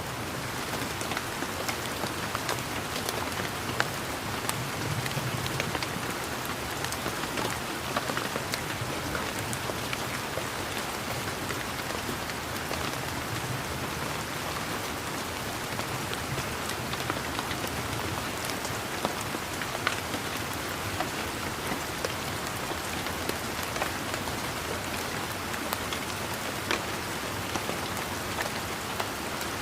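Steady rain falling on leaves and garden surfaces, a continuous patter with many individual drops heard as close, sharp ticks.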